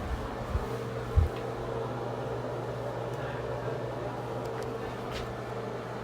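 A steady low machine-like hum, with a couple of soft low thumps about a second in and a few faint clicks near the end.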